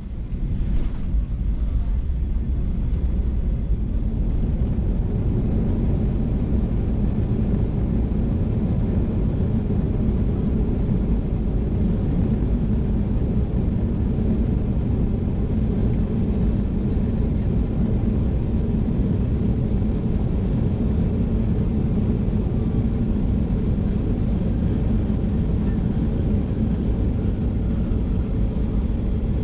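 Steady low rumble of a Boeing 737-800's engines and airflow, heard inside the passenger cabin.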